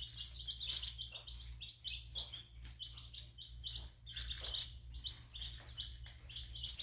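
A group of young chicks of native Korean chickens and Ogolgye (black-boned chickens) peeping continuously, many short high peeps overlapping, over a steady low hum.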